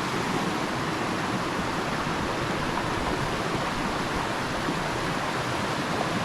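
Waterfall: the steady, even rush of falling water, close and fairly loud.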